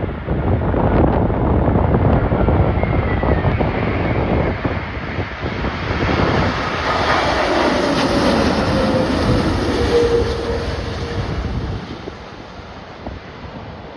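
Jet airliner's engines passing close by, a whine that slides down in pitch as it goes past, over heavy wind noise on the microphone; it fades about twelve seconds in.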